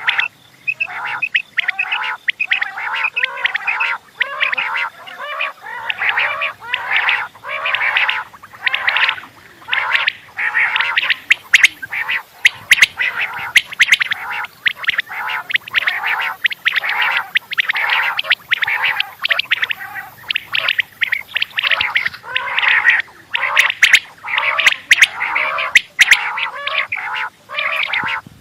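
Quails calling over and over, short calls following each other about twice a second without a break.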